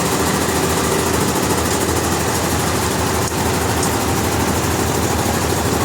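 Sawmill engine running steadily with an even mechanical drone and no break.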